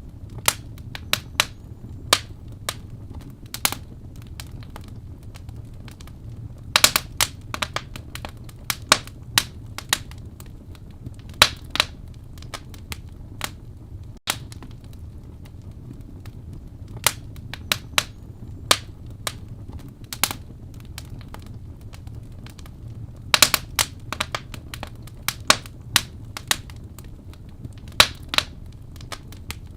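Wood fire burning in a fireplace: irregular sharp crackles and pops over a steady low rumble of flame, with quick flurries of pops about seven seconds in and again a little past twenty-three seconds.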